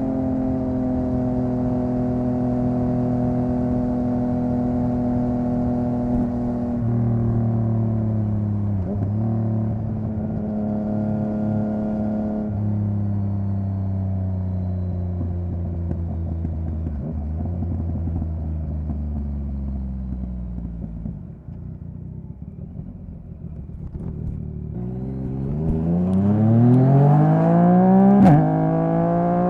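Yamaha MT-09 three-cylinder engine under way, its note holding and then slowly sinking as the bike slows, with a couple of brief breaks in the note. Near the end it revs hard with a steeply rising pitch, broken by a quick upshift.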